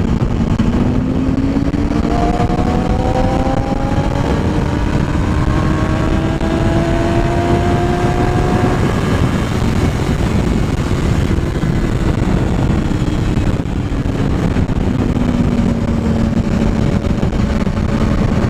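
A road vehicle's engine pulls up through the revs for several seconds, then eases off and drops in pitch near the end, under steady heavy wind and road noise.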